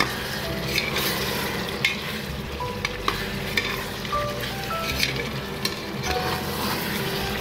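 Boneless mutton and spice masala frying and sizzling in oil in an aluminium pressure cooker, while a slotted metal spatula stirs and scrapes the pan, with scattered sharp clicks of metal on metal. This is the bhuna stage, roasting the meat in the spices.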